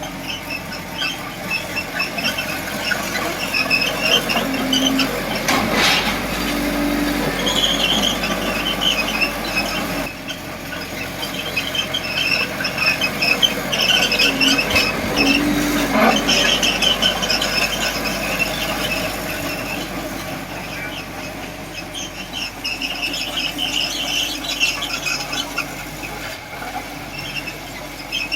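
Small crawler bulldozer (Komatsu D20P) working, its steel tracks squealing in repeated high chirps over the running engine, with two sharp metallic clanks, about 6 and 16 seconds in.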